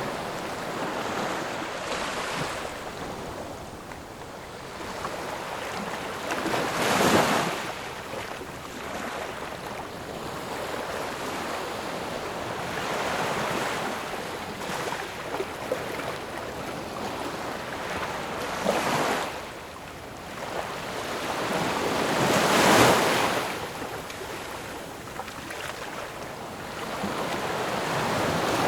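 Ocean waves breaking and washing on a shore, a steady wash of surf with louder breakers about 7, 19 and 23 seconds in.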